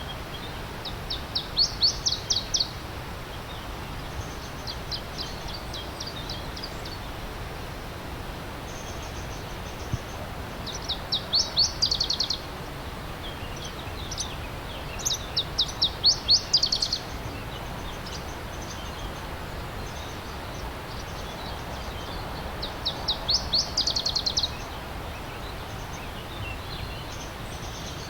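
A songbird singing short phrases of rapid, quickly repeated notes, about five times, each phrase lasting a second or two, over the steady rushing of a stream.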